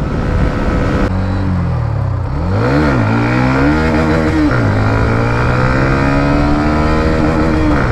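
Hero Xtreme 125R's single-cylinder engine, heard from the saddle: wind rush at top speed for about a second, then the throttle closes and the revs fall. The revs rise and drop twice, like gear changes, and settle into steady running at lower revs that slowly climb.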